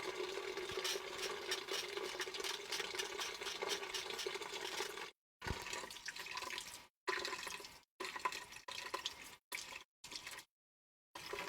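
Water running steadily from a tap, shut off about five seconds in, followed by short, broken-up handling sounds.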